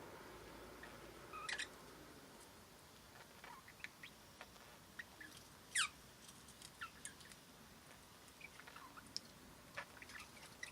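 Budgerigars giving soft, scattered chirps and short clicks, with one louder falling chirp a little past halfway.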